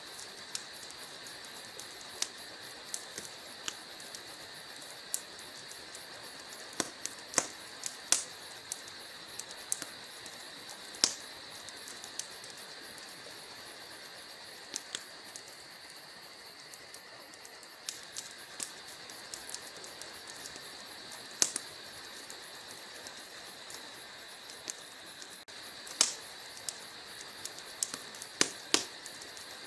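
Wood fire burning in a fireplace. The logs crackle and pop at irregular intervals over a steady soft hiss, with a few sharper, louder pops.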